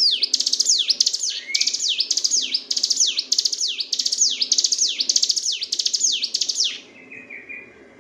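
Ciblek gunung (a prinia) singing in one long rapid burst: about ten descending, rattling sweeps, roughly one and a half a second, in the continuous drilling style keepers call ngebren. The song stops about seven seconds in, trailing off into a few soft, lower notes.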